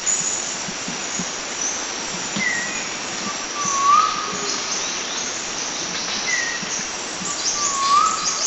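Forest birds singing over a steady hiss and high, thin chirping, with one bird repeating a short phrase, a brief higher note followed by a lower rising whistle, about every four seconds.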